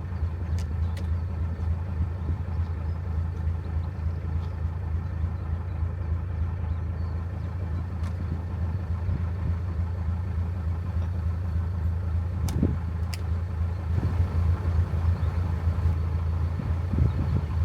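Narrowboat's inboard engine running steadily with a low hum, and a few light clicks over it.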